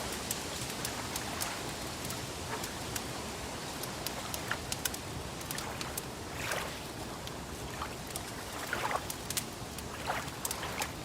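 Wood fire crackling: irregular sharp snaps and pops, a few louder ones, over a steady hiss.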